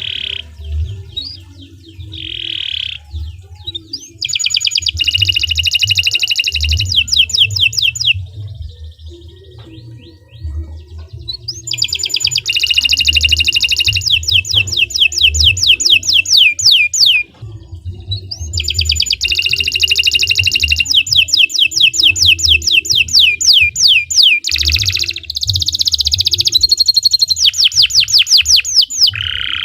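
Domestic canary singing long, fast trills: several runs of rapidly repeated high notes, each lasting a few seconds, with short pauses between them. A low rumble runs underneath.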